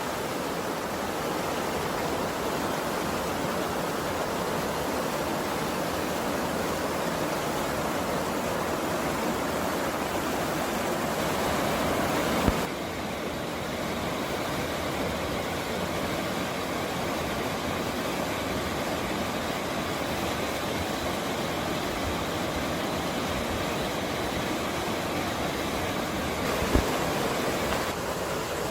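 Mountain stream water rushing steadily. The sound shifts abruptly about halfway through, with a brief click.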